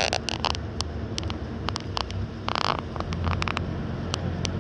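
Sightseeing boat's engine running with a steady low hum that grows a little louder about three seconds in, over a scatter of sharp clicks and one short harsh burst about two and a half seconds in.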